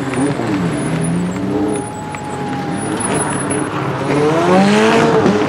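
Ford Sierra RS Cosworth rally car's turbocharged four-cylinder engine revved hard while the car drifts, its pitch swinging up and down. The revs climb and the engine grows louder about four seconds in.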